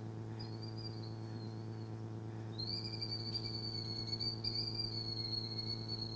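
Recorded killdeer call played through the hall's loudspeakers: a thin, high, slightly wavering trill that comes in faintly near the start and then holds steadily from a little over two seconds in, over a steady electrical hum.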